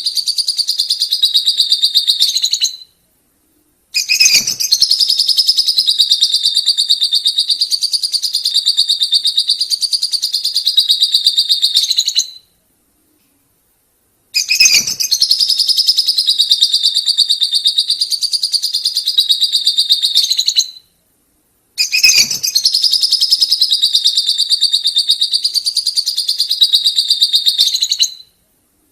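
Colony of lovebirds chattering in a rapid, continuous high-pitched trill, the long 'ngekek' song, in stretches of about six to eight seconds that break off into short silent gaps.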